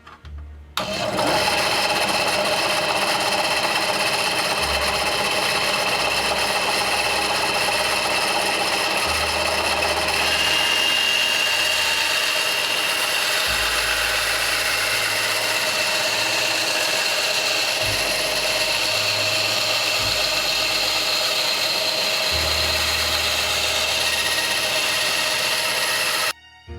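Small benchtop Ryobi bandsaw running steadily as it cuts a round piece of wood stock. It starts about a second in and stops suddenly near the end.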